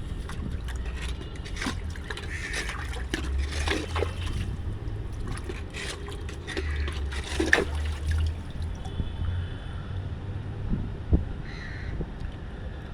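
Rainwater gushing and splashing out of a freshly unblocked rooftop drain, with crows cawing.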